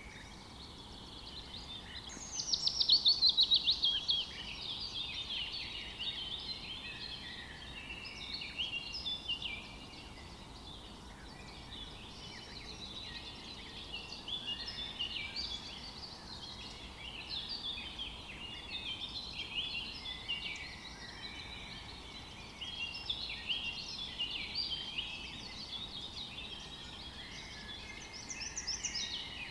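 Chorus of several songbirds singing and calling at once. About two seconds in, one bird gives a loud, rapid trill that falls in pitch.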